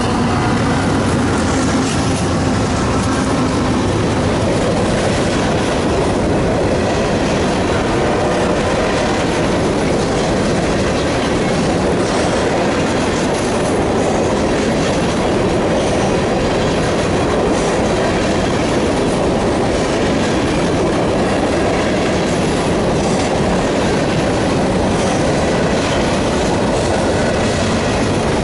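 Empty covered hopper cars of a CSX grain train rolling past close by, with a steady loud rumble and rattle of wheels on rail. In the first few seconds the drone of the passing diesel locomotive's engine fades out under it.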